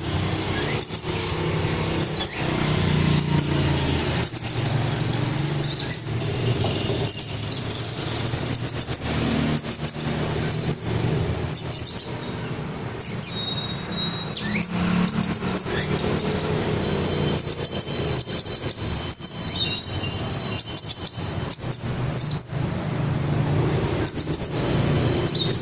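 Kolibri ninja sunbird singing: short high chirps and sharp notes every second or two, with quick rapid trills in places. A steady low hum runs underneath.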